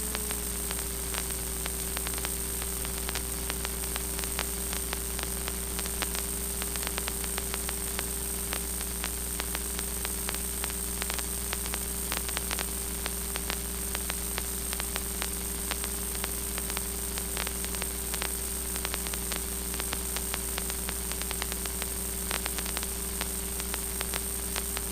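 Aircraft intercom audio line recorded straight into a camera: a steady hiss and static with frequent faint crackles over a low steady hum.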